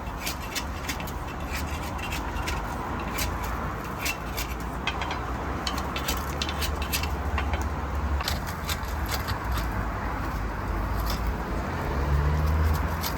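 A steady low rumble with many scattered light clicks and clinks; the rumble swells briefly near the end.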